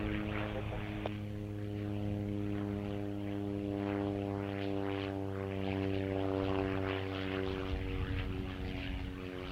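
Antonov An-12BP's four turboprop engines and propellers running, a steady drone of several evenly spaced pitches with a rushing noise over it.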